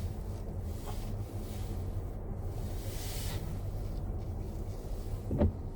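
Car interior noise while driving: a steady low road and engine rumble with swells of hiss, and a short knock about five seconds in.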